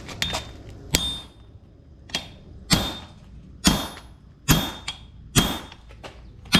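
Forging hammer striking a railroad spike on an anvil: a steady run of about seven sharp metal blows, roughly one a second, each with a brief high anvil ring.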